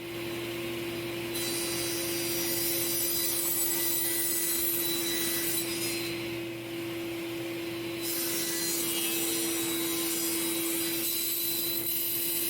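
Table saw running with a steady hum while ripping along the weathered edge of a cedar-style fence picket to flatten it for gluing. The cutting noise eases briefly about six seconds in, then picks up again.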